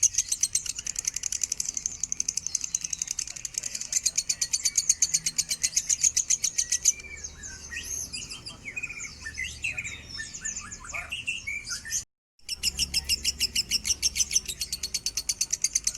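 Lovebird singing a long, fast chattering trill of high chirps, about a dozen a second. About halfway through it breaks into a few seconds of varied, irregular squeaky chirps. After a brief dropout the fast trill starts again.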